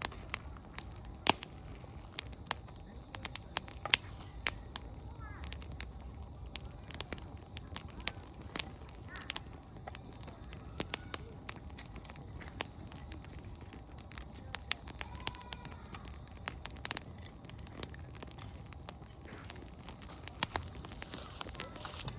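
Firewood burning in an open campfire, crackling with irregular sharp pops, a few of them much louder than the rest.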